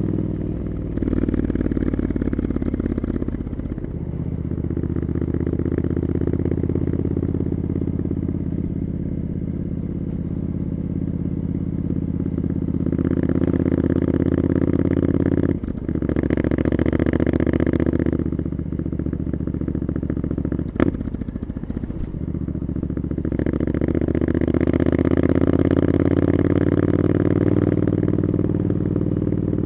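Triumph Scrambler 900's parallel-twin engine through an Arrow exhaust, riding along city streets. The engine runs steadily, rising in pitch under throttle twice, with a brief drop in engine sound about halfway through and a single sharp click about two-thirds of the way in.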